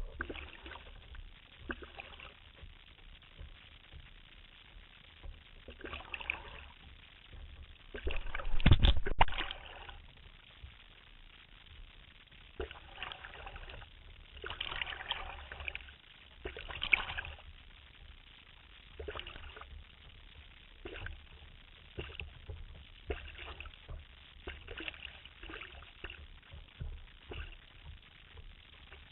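Water splashing and lapping in irregular bursts every second or two, with one louder burst that has a low rumble about nine seconds in.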